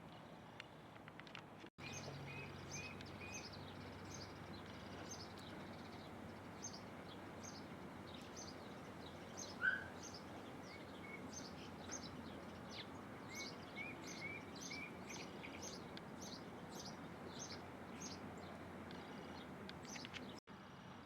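Small birds chirping: many short, high chirps at about two a second, with brief runs of lower notes. One louder, lower call comes about ten seconds in, over a steady outdoor hiss.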